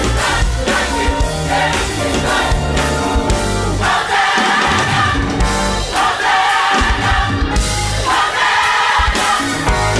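Gospel choir singing a worship song over band accompaniment with a strong bass line; the massed voices come in fuller about four seconds in and again near the end.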